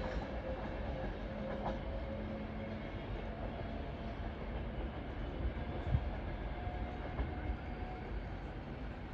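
A train running on the track: a steady low rumble with faint steady tones, and a knock about two seconds in and again about six seconds in.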